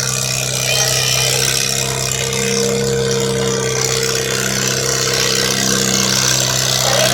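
A vehicle engine idling steadily, holding an even pitch without revving.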